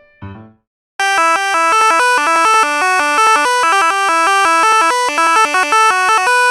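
A bright, buzzy GarageBand synthesizer tone playing a quick melody of short stepped notes. It starts about a second in, after a brief piano phrase fades out.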